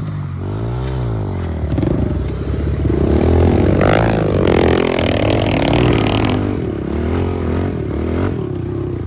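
Pit bike engine revving up and down as the bike is ridden, its pitch rising and falling repeatedly. A loud rushing noise joins in for about two seconds in the middle.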